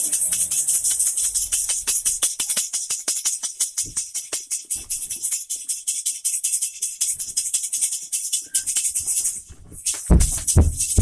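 Fast, rhythmic shaking rattle like a maraca or shaker, about ten strokes a second with a bright hiss. It thins out in the middle, then comes back louder and heavier in the last second.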